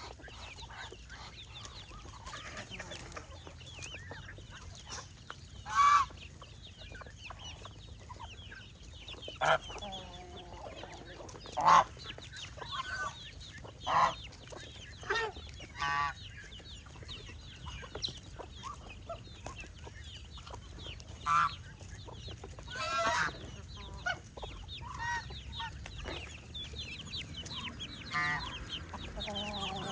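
Farmyard poultry flock calling, mostly hen-like clucking: short loud calls every second or two over many faint, high chirping calls throughout.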